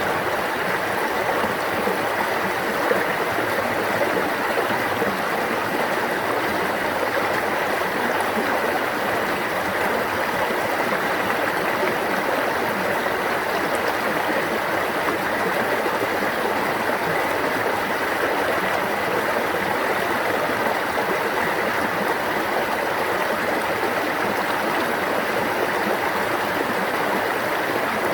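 A stream of water running and babbling, a steady unbroken rush.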